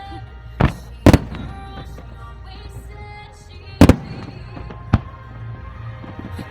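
Fireworks bursting over music: two sharp bangs close together about a second in, a third near four seconds and a lighter one a second after that, with music playing steadily underneath.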